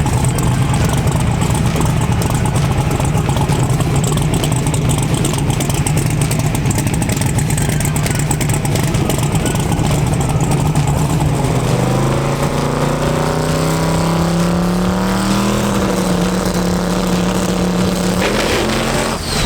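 Drag-racing car engine running steadily with a rough low drone, then its revs climb about twelve seconds in and hold at a higher pitch. The sound cuts off suddenly near the end.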